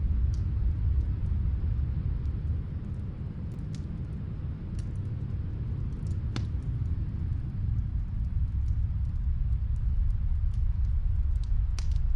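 Snowstorm wind blowing low and steady, easing a few seconds in and then building again. Sparse, faint pops come from a fireplace crackling in another room.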